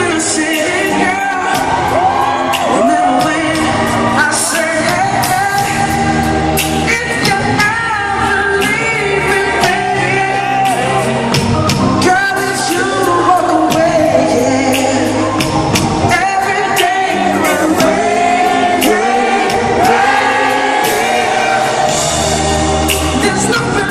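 Live pop music: a male lead voice singing over a band with bass and drums, heard in a large hall.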